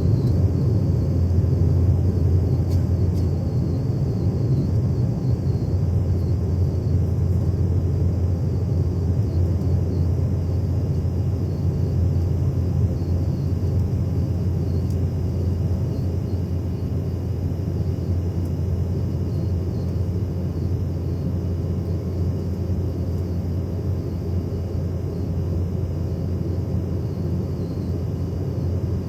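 Cabin noise inside an Embraer ERJ-190 airliner at takeoff: a steady, deep rumble from its General Electric CF34-10E turbofan engines and the airflow, easing slightly in loudness.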